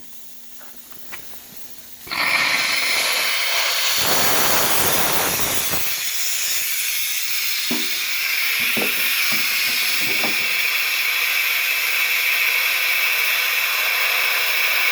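Compressed air hissing out of an air compressor tank that has rusted through. The hiss starts suddenly about two seconds in and then runs on steadily and loudly.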